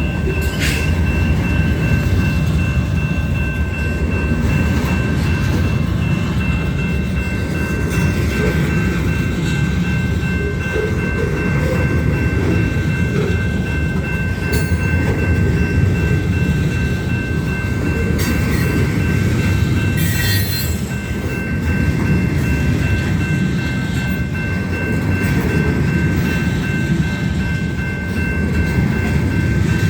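Union Pacific train rolling steadily past: a continuous heavy rumble of wheels on rail with scattered clanks and clatter, and a steady high-pitched ringing tone above it throughout.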